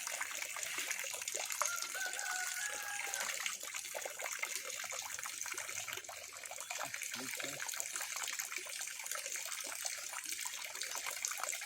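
Water running and trickling steadily through a muddy pond, with many small splashes. A faint, brief whistle-like tone sounds between about one and a half and three seconds in.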